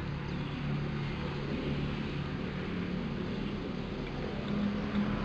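A steady engine-like hum over a constant noisy background, its pitch wavering slightly, with no distinct knocks or tool strikes.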